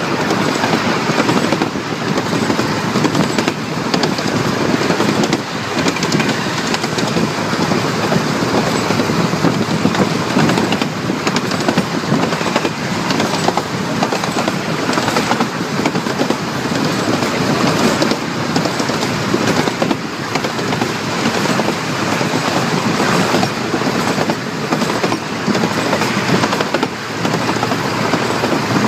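A small-gauge train rolling along the track behind a steam locomotive: steady wheel-on-rail noise with a constant clatter of clicks and rattles from the cars and rail joints.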